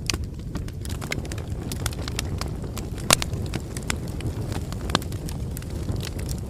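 Wood campfire crackling: scattered sharp snaps and pops over a steady low rumble of the flames, the loudest pop about three seconds in.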